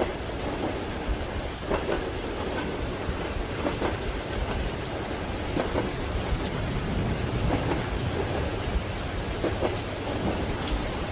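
Steady rain over the low rumble of a moving train carriage, with soft wheel knocks on the rail joints about every two seconds.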